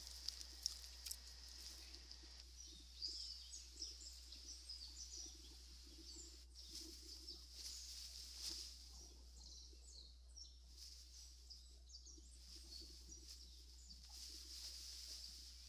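Faint birdsong: many short, high chirps over a steady high-pitched hiss, with a constant low hum underneath.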